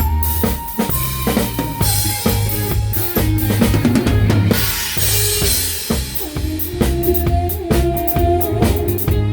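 A live band playing a song, led by a drum kit keeping a steady beat on kick drum, snare and cymbals. Under it runs a bass line, and over it a held melody line moves from note to note.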